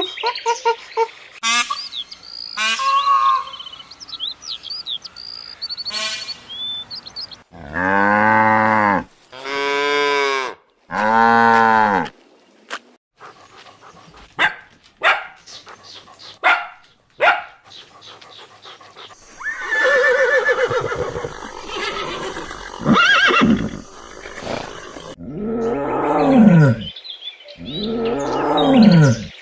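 A run of different animal calls, one after another: high chirping calls at first, then three long, low drawn-out calls, then scattered clicks, and several loud calls falling in pitch near the end.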